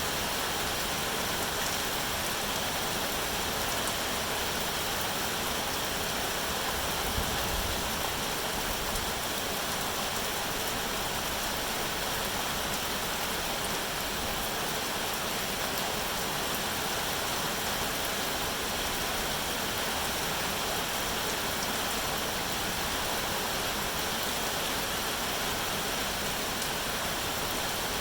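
Steady rain falling, an even hiss of noise with no change in level, with a brief low rumble about seven seconds in.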